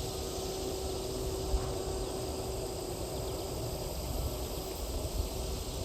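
Outdoor field ambience: wind rumbling on the microphone, with a faint steady hum that fades out about four to five seconds in.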